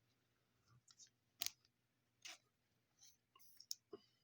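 Faint clicks and light rustles of baseball trading cards being handled and flipped through one by one, the sharpest click about a second and a half in.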